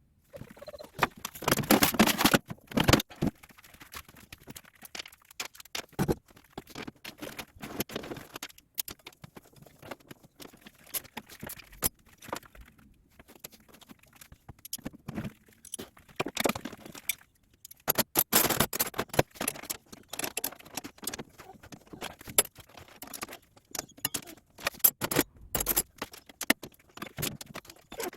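Hand tools and metal parts clinking, rattling and scraping as a 125cc motorcycle is dismantled, with irregular sharp clicks and a few louder spells of rattling near the start and around two-thirds of the way through.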